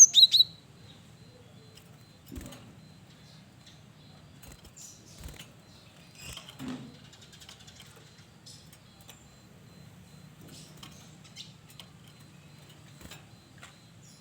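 Cinereous tit (gelatik batu) giving a quick run of three sharp, high chirps right at the start. After that come only faint scattered clicks and soft taps over a low steady hum.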